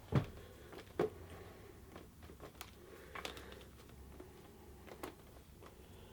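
Scattered knocks and clicks of hands handling a motorcycle carburettor bank, working it against the inlet rubbers. The two loudest knocks come just after the start and about a second in, with fainter ticks later, over a faint low hum.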